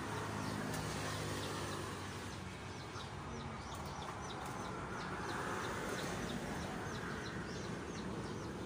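Outdoor ambience: many short, high chirps from birds, thickest in the middle, over a steady low hum and background noise.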